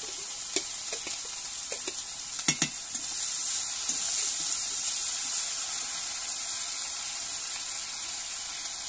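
Onions and freshly added ginger-garlic and cumin-chilli paste frying in hot oil in a steel kadai: a steady sizzle that swells about three seconds in. A few sharp metal clicks of the spatula against the plate and pan come in the first three seconds.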